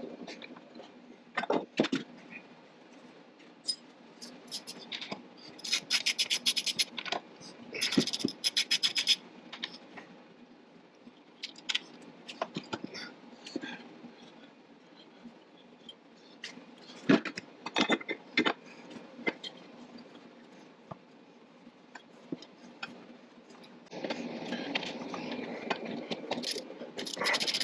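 Hand work on metal car parts: scattered clinks, knocks and scraping, with two short bursts of rapid clicking about six and eight seconds in, and a steadier rushing noise near the end.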